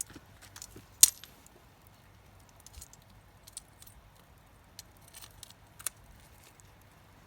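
Campfire crackling: scattered sharp pops and snaps at irregular intervals, the loudest about a second in.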